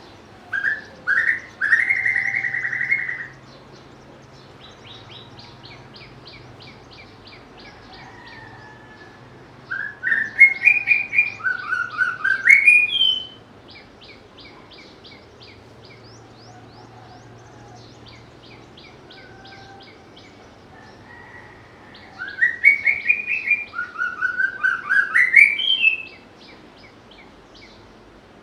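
White-rumped shama singing: three loud phrases of rich whistled notes, sweeping and rising, about ten seconds apart. Between them is a faint, fast ticking chatter.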